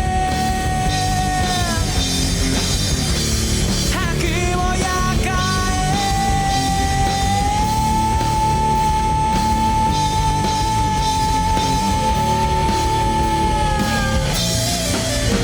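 Rock band playing with heavy distortion. Over the band one high lead note is held. It slides down about two seconds in, bends back up, then holds steady for about seven seconds before dropping near the end.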